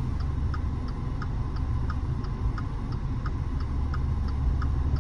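Car turn-signal indicator clicking steadily, about one and a half clicks a second, over the low rumble of the car driving on the road.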